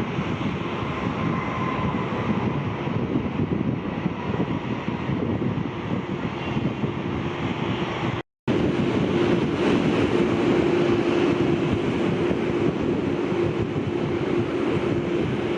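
Jet airliner engines running, a steady noise with a faint steady tone, mixed with wind on the microphone. The sound cuts out for a moment about eight seconds in and comes back slightly louder, with a lower steady tone.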